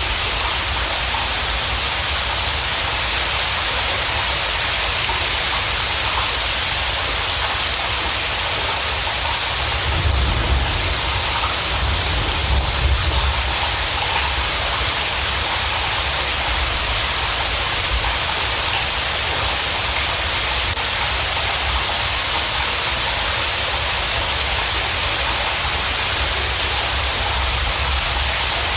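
Steady rain falling, an even hiss of many drops, with a brief low rumble about ten to fourteen seconds in.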